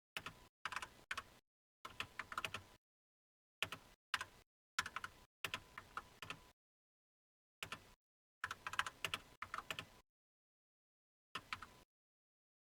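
Computer keyboard typing in short bursts of quick keystrokes, with silent pauses between the bursts.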